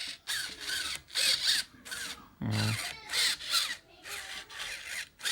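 RC truck steering servo whining in short bursts as the wheels are turned back and forth from the controller, about seven quick whirs with a sliding pitch.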